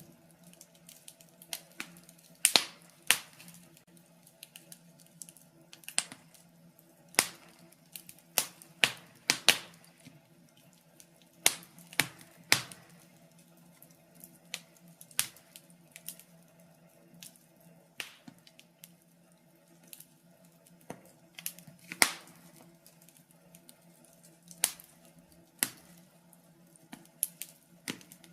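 Wood fire crackling in a fireplace: irregular sharp pops and snaps, about one a second, with louder ones here and there, over a faint steady low hum.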